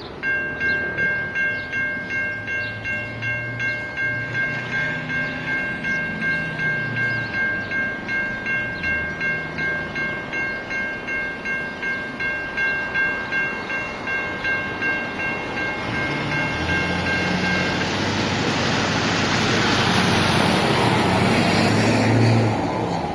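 A grade-crossing warning bell rings in quick even pulses, about two a second, while a freight train's diesel locomotives approach, their engines running low underneath. The bell stops about three-quarters of the way through as the lead units, an EMD SD70MAC and a GE Dash 8-40CW among them, pass close by. Their engine and wheel noise swells to its loudest near the end.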